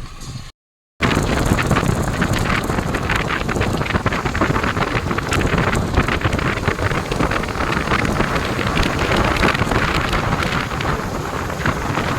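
Wind buffeting the microphone along with rain, a loud dense rushing noise with fine crackling. It begins abruptly after a short dropout to silence about a second in.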